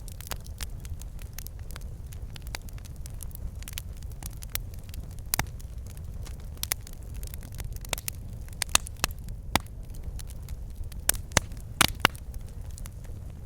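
Wood fire burning in a fireplace: a steady low rumble of flame with irregular sharp crackles and pops from the logs, bunched more thickly in the second half.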